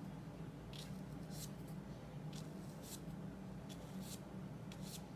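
Paintbrush dragged in short downward strokes through oil paint on gessoed paper: a series of faint, irregular swishes, about seven or eight of them.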